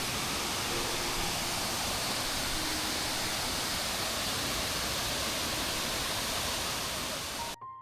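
Waterfall: water pouring down in a steady, even rush that cuts off suddenly near the end.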